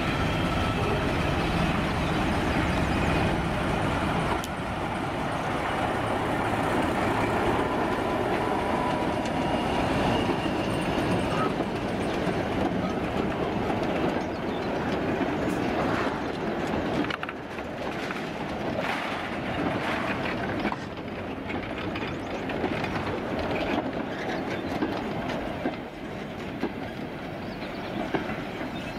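BR Class 14 diesel-hydraulic shunter running as it hauls a goods train past. Then a train of old goods wagons rolls by with repeated clicks of the wheels over the rail joints, the sound slowly fading near the end.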